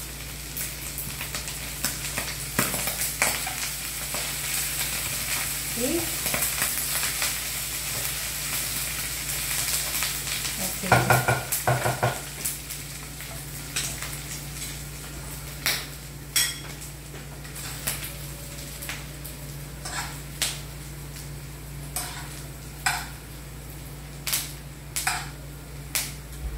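Mussels frying and sizzling in oil in a pan, with stirring, just after curry leaves go in. The sizzle is loudest over the first half and then eases. From about 14 s on a metal spoon clinks sharply and repeatedly against the pan and plate as the mussels are served, over a steady low hum.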